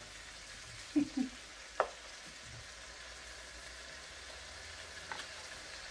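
Chopped tomatoes, onion, garlic and chili sautéing in oil in a nonstick pan, with a steady faint sizzle. There is a short knock about a second in and a sharp click just before two seconds, typical of a spatula on the pan during stirring.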